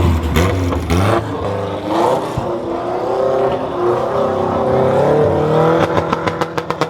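Car engine revving, its pitch wavering and climbing, then a fast run of sharp exhaust pops, about eight a second, near the end.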